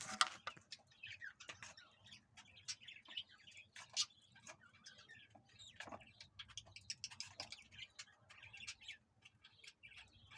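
A group of pet birds chirping: many short, high calls overlapping, with a few sharp clicks among them.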